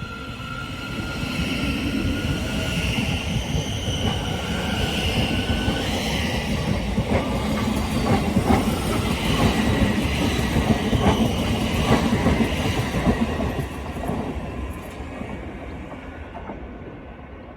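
A passenger train passing through the station: its sound builds over the first couple of seconds, carries a high thin wheel squeal early on and a run of sharp wheel clicks over the rail joints in the middle, then fades away over the last few seconds.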